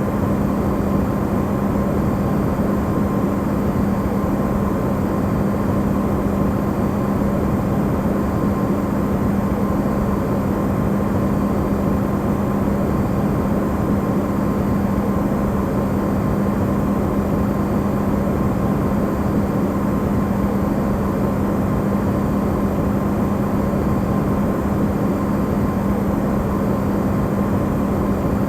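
Electrolux refrigerator running, recorded amplified: a steady, even hum with a constant low tone under it.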